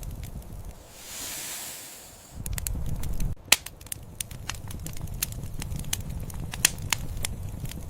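Wood fire burning in a fireplace, crackling with frequent sharp pops and snaps over a low rumble of the flames. A soft hiss swells and fades about a second in, and the loudest pop comes about three and a half seconds in.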